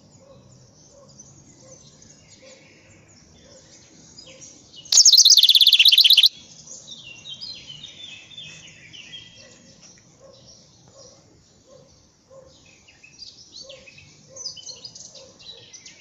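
Small songbirds singing and chirping, with repeated quick falling trills. About five seconds in, a much louder, fast rattling burst lasts about a second and a half.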